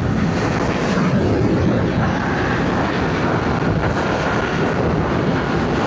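Steady wind noise buffeting the rider's microphone while riding a Yamaha MT-07, with the bike's parallel-twin engine running underneath.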